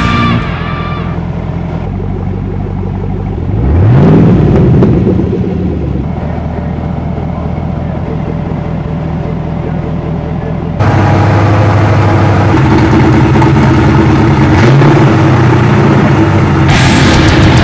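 GM LS-series V8 crate engines running on test pallets. A supercharged LSA revs once about four seconds in and settles back to idle. About eleven seconds in, a louder LS7 V8 is heard idling steadily.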